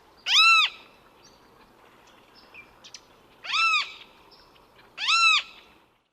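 Great kiskadee calling: three loud, harsh single notes, each rising and then falling in pitch and lasting about half a second. The first comes right at the start, and the other two come about a second and a half apart near the end.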